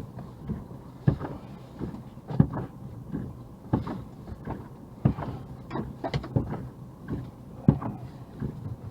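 Irregular knocks and clunks inside a running car's cabin, about a dozen unevenly spaced, over the car's low steady hum.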